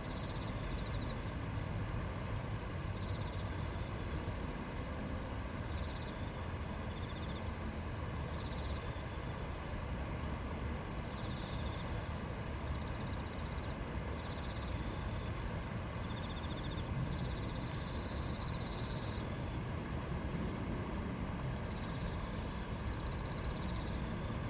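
Shallow river or stream flowing and babbling steadily. Short, faint, high-pitched trills recur every second or two over it.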